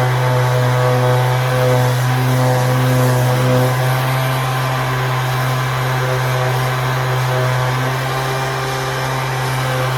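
Steady, loud drone of a running motor, a constant low hum with several unchanging tones above it.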